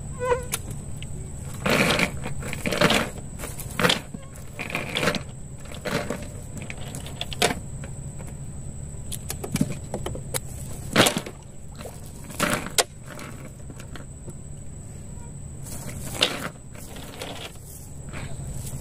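Irregular knocks and clatter, the loudest about eleven seconds in, over a steady high insect whine and a low hum.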